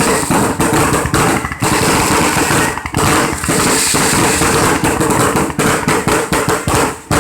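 Loud, continuous barrage of fireworks: rapid bangs and crackling packed tightly together, with a few brief dips, about one and a half seconds in and again near three seconds.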